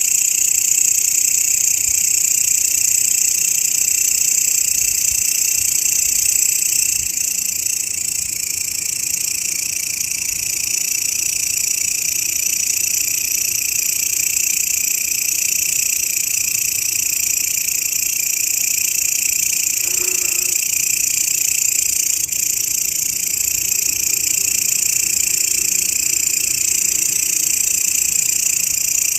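Grasshoppers stridulating in a continuous, high-pitched chorus that holds steady throughout.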